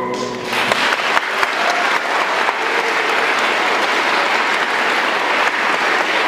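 An audience applauding, the clapping swelling up within the first second as the children's last sung note dies away, then continuing steadily.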